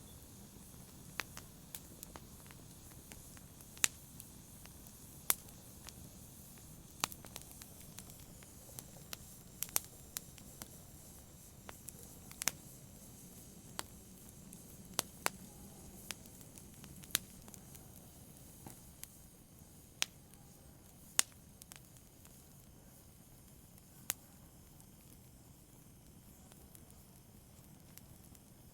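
Wood fire crackling in a fireplace: irregular sharp pops and snaps over a low steady hiss. The pops thin out over the last few seconds.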